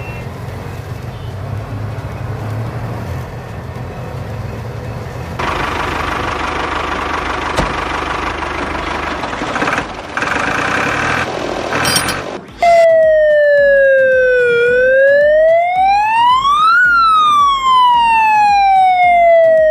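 Electronic siren of a toy police car: a clean, loud wail that starts abruptly about two-thirds of the way in, falls, rises and falls again in slow sweeps. Before it there is a steady rough rattling noise that grows louder about five seconds in.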